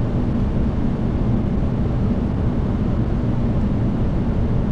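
Steady rushing noise of airflow and engines inside a Boeing 737 flight deck on approach, with a low hum underneath.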